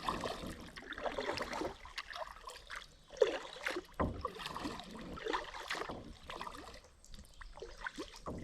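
Kayak paddle dipping and splashing in shallow stream water, with water trickling and dripping between strokes, which come irregularly about once a second.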